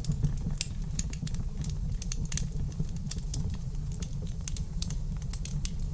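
Wood fire crackling in a fireplace: a steady low rumble of burning with many sharp, irregular pops and snaps, several a second.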